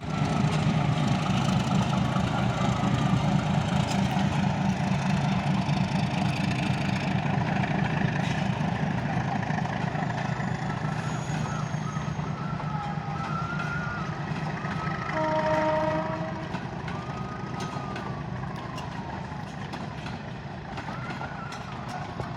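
Diesel locomotive engine running with a pulsing low rumble as the train pulls away, slowly fading. A short steady horn note sounds about fifteen seconds in.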